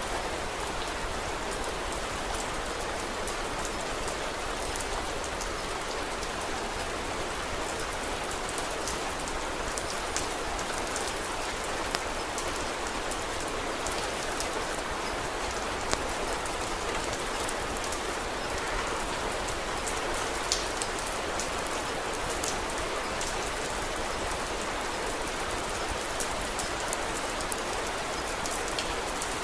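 Steady rain falling, with scattered sharp ticks and pops standing out a dozen or so times.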